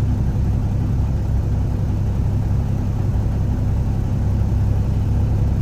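Peterbilt 359's diesel engine idling steadily, a low, even drone.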